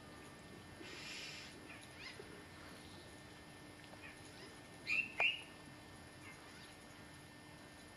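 Faint outdoor ambience with scattered short bird chirps. The loudest are two brief high chirps in quick succession about five seconds in. A short hiss sounds about a second in.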